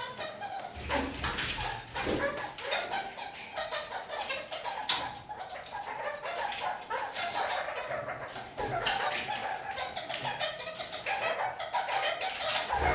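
Red-crowned kakariki parakeets chattering and calling, a continuous run of quick short chirps with scattered sharp clicks.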